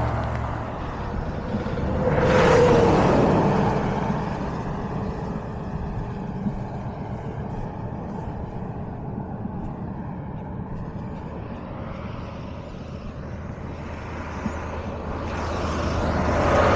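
Vehicles passing at speed on the road, two of them swelling up and fading away about two seconds in and near the end, each with a drop in pitch as it goes by, over a steady low rumble of traffic.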